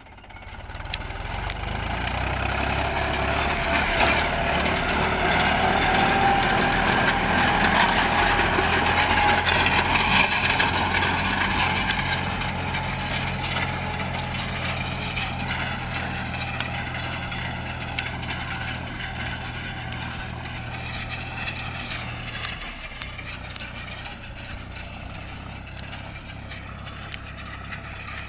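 Tractor diesel engine running, a steady low drone with a higher whine above it. It grows louder over the first few seconds, then slowly gets quieter, and its low note shifts about three quarters of the way through.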